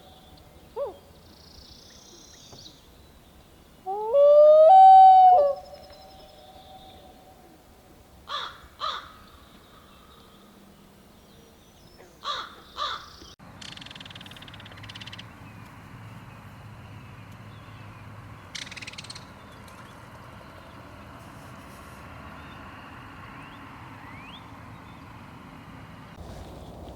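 Several wild animal calls: a loud drawn-out call about four seconds in that rises in pitch and then holds, then two pairs of short calls, and later one short call over a steady outdoor hiss.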